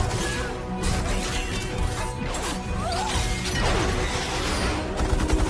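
Film soundtrack: dramatic score under action sound effects, with crashing and smashing impacts and whooshes.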